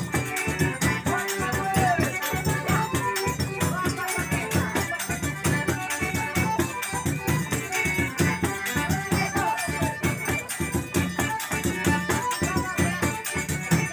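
Forró music: a zabumba drum beating a steady rhythm under rattling, jingling percussion and a melody line.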